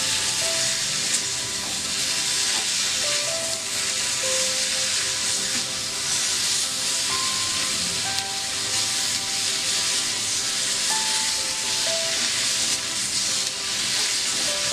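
Chicken pieces and onions frying in an aluminium kadai, with a steady sizzle while a spatula stirs and scrapes through them. Soft background music with held notes runs underneath.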